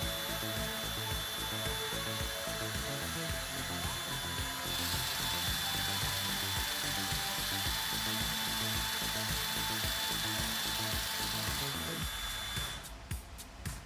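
Small electric motor driving a link mechanism that shakes clothing fabric: a fast mechanical rattle with a steady high whine over a blowing noise, stopping about 13 seconds in.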